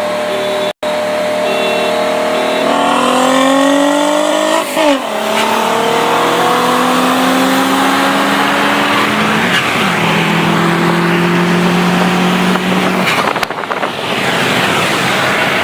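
A 2009 Subaru WRX's turbocharged 2.5-litre flat-four engine pulling hard, heard from inside the cabin. Its pitch climbs through each gear, with upshifts about five seconds in, about ten seconds in and again near the end.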